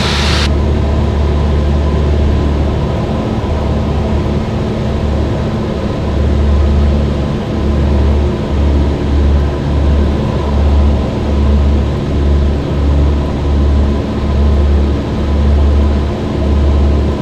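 Cessna 172's piston engine and propeller droning steadily in cruise, heard inside the cabin. From about six seconds in, the low drone swells and fades roughly once a second.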